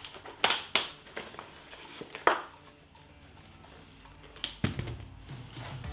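A few sharp clicks and knocks, with some handling noise, as the removable inner padding of a motorcycle helmet is unclipped and pulled out.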